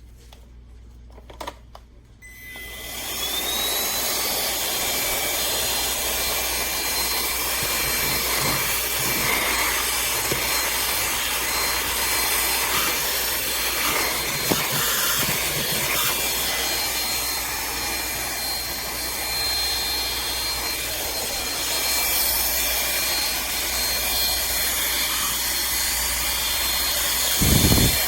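Cordless handheld vacuum cleaner switching on about two seconds in: its motor whine rises quickly to a steady high pitch over a rush of air and keeps running, with a dull bump near the end.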